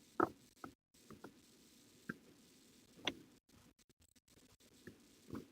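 Scattered light clicks and taps of plastic parts being handled as the Ryobi stick vacuum's housing is put back together.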